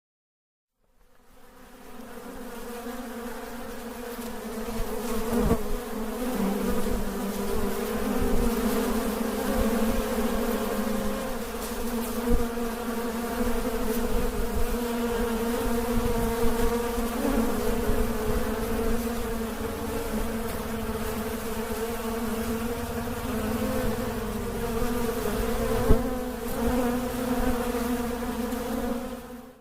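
Honeybees buzzing in a dense mass, a steady many-voiced hum that swells in over the first few seconds. A few brief knocks stand out, the sharpest near the end.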